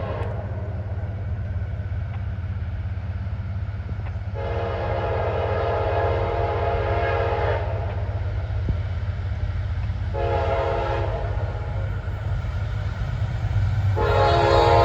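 CSX freight locomotive's air horn sounding a long, short, long series of blasts, the grade-crossing warning as the train approaches: one blast ending just after the start, a long one about four seconds in, a short one about ten seconds in, and a long one starting near the end. Under it runs the steady low rumble of the approaching train, growing louder toward the end.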